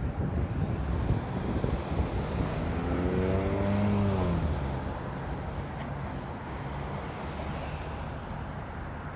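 Street traffic noise, with one motor vehicle passing close by about three to four seconds in: its engine tone swells and then drops in pitch as it goes past.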